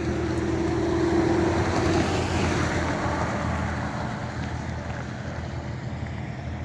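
Lexus IS250 AWD's V6 idling through a straight-piped, muffler-deleted exhaust. A rushing noise swells about a second in and fades away over the next few seconds.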